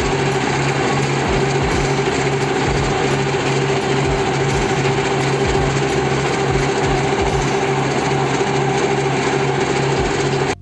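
Concrete pump truck's diesel engine running at a steady speed while pumping concrete, with low thuds now and then.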